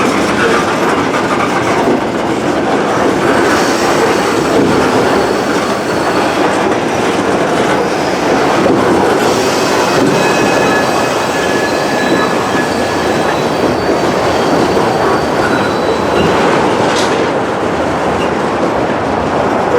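Norfolk Southern freight train rolling past: a steady rumble of steel wheels on rail, with thin, faint wheel squeals coming and going.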